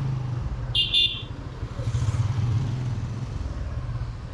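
Motorcycle engine running steadily at low speed, with a brief high-pitched beep about a second in.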